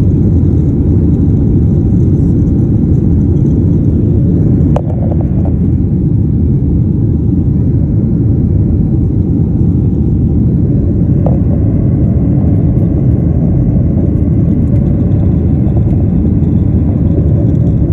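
Jet airliner's engines during takeoff: a loud, steady, deep rumble, broken twice by a brief click.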